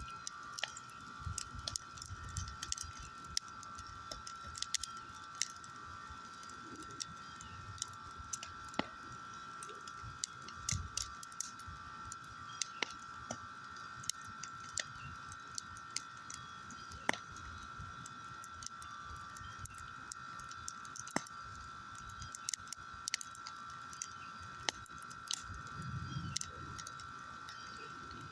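Fire burning storm debris, crackling with frequent irregular sharp pops and snaps.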